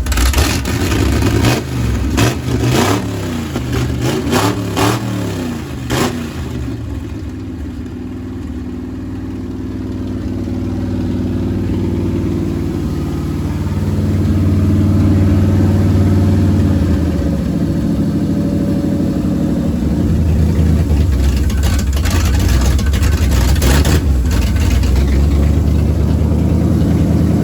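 Small-block Chevy V8 in a Blazer, running through its new exhaust with a new Holley carburettor. It is revved in several quick blips for the first six seconds, then settles to a steady idle that climbs a little and falls back later on.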